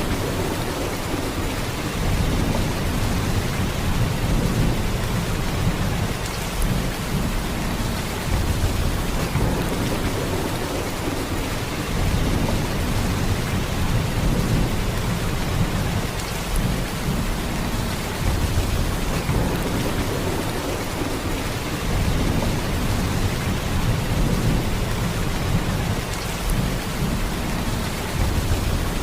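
Heavy rain falling in a steady downpour, a dense even hiss with a deep low rumble under it.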